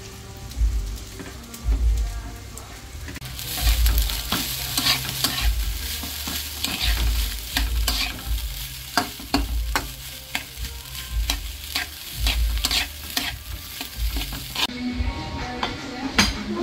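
Food frying in a pan: a sizzle sets in a few seconds in, with repeated clicks and scrapes of a utensil stirring it and dull low thumps. The sizzle cuts off suddenly shortly before the end.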